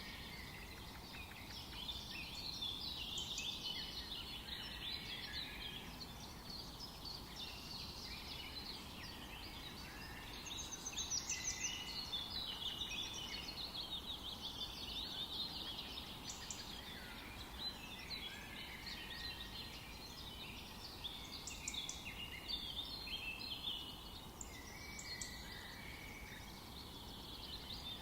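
Forest birdsong: several birds singing and calling at once, a dense chorus of chirps, trills and short whistles over a steady low background hiss.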